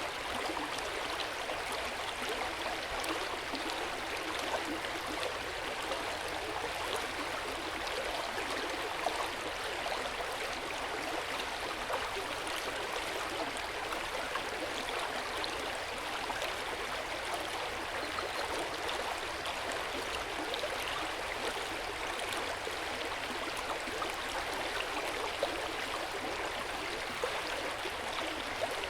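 Hot-spring water pouring steadily into an outdoor bath, a continuous splashing and gurgling flow with small droplet splashes.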